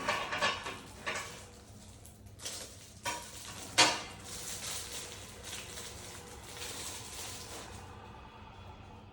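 Small coffee-making utensils being handled, with clinks and clatters: a cluster in the first second, then single knocks, the loudest about four seconds in. Softer rustling follows until near the end.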